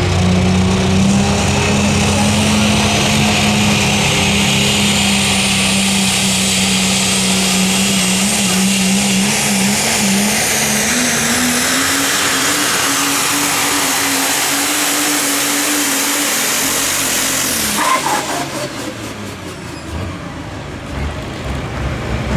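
Super stock diesel pulling truck's engine running hard under load, with a high whistle over it. Its pitch climbs about halfway through, then the engine note cuts off suddenly near the end and the sound falls away.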